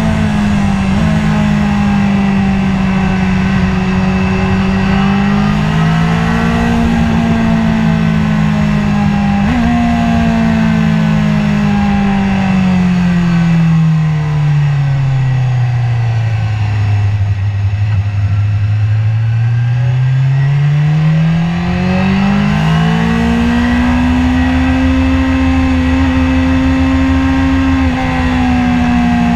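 BMW S1000RR 999 cc inline-four engine heard from on board at speed, with wind rush. Its pitch holds steady, drops over several seconds as the bike slows into a second-gear corner, then climbs again under acceleration and holds high.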